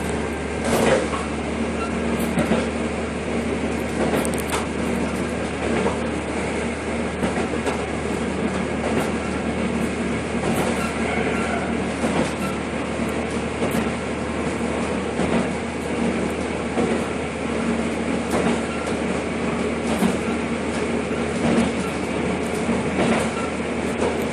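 A train in motion, heard from inside the passenger car: a steady rumble and hum from the running gear, with the clickety-clack of the wheels passing over rail joints at irregular intervals.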